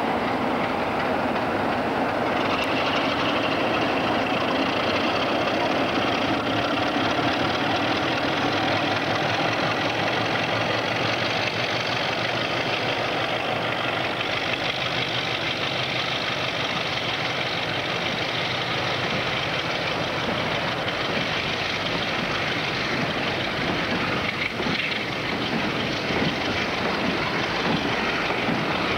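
Diesel locomotives working a train of bogie ballast hopper wagons past, the engines running under load and the wagon wheels rumbling over the track, at a steady level throughout.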